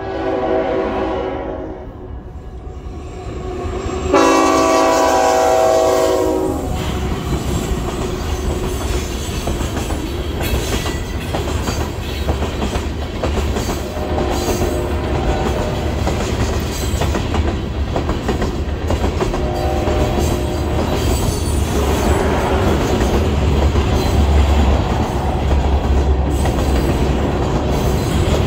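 Freight locomotive horn sounding for the grade crossing: a fading note at the start, then a loud blast about four seconds in lasting a couple of seconds. After it, the frac sand train's covered hopper cars roll past with a steady rumble and the clickety-clack of wheels over the rail.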